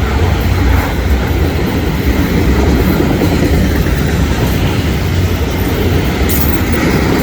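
Florida East Coast Railway freight train passing close by: a steady, loud low rumble with the clatter of steel wheels on the rails.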